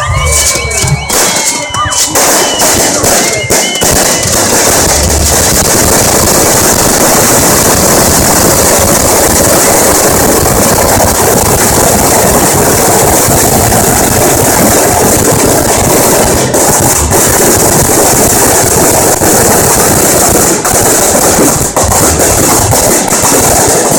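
A long string of firecrackers going off in rapid, dense, unbroken popping and crackling, loud throughout. A few brief whistle-like tones sound in the first two seconds.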